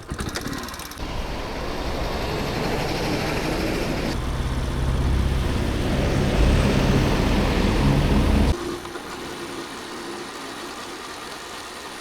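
Motor vehicle engine running with a steady low hum, growing louder, then dropping off abruptly about eight and a half seconds in to a quieter steady running sound.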